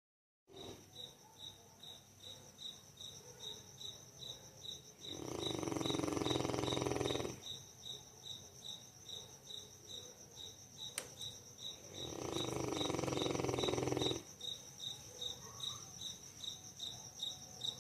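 Dogue de Bordeaux snoring in deep sleep: two long, loud snores of about two seconds each, around five and twelve seconds in, with softer rhythmic breathing snores between them and another loud one starting at the very end. A steady high-pitched chirp repeats a few times a second behind it throughout.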